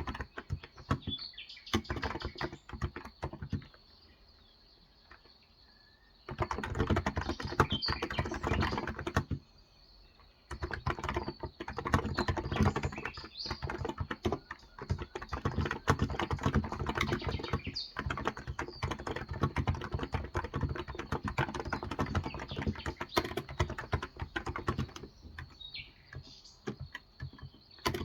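Typing on a Cox Endeavor electrostatic capacitive tenkeyless keyboard with 35 g keys: quick runs of keystrokes, with two short pauses in the first ten seconds, then steady typing. Birds chirp faintly in the background.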